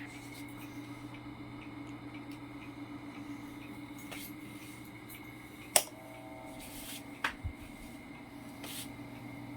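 Asahi PF-630's electric motor running with a steady hum and a constant whine. Two sharp clicks a second and a half apart come a little past the middle, the first the loudest sound.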